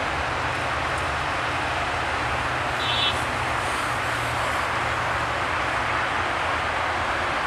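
Diesel-electric locomotives of two passenger trains running past slowly, a steady low engine hum over rolling rail noise. A brief high squeak about three seconds in.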